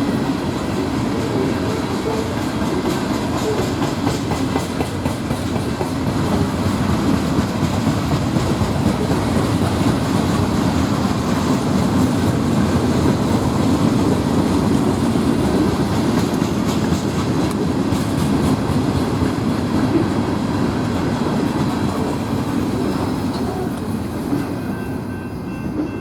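Norfolk Southern freight train rolling past, a steady rumble of cars with wheels clicking over the rail joints.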